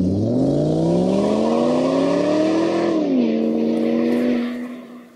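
Car engine accelerating: its pitch climbs for about three seconds, drops sharply as with a gear change, holds steady briefly, then fades away near the end.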